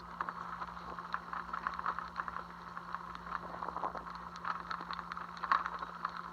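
Light rain pattering: many small, irregular ticks of raindrops, over a faint steady low hum.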